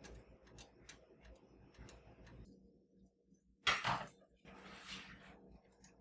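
Light scattered clicks and taps of household objects being handled, with a louder short scraping rush a little past the middle followed by a softer hiss.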